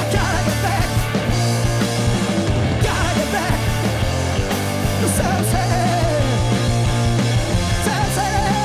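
A rock band playing loudly live, with a wavering high melody line coming in about halfway through.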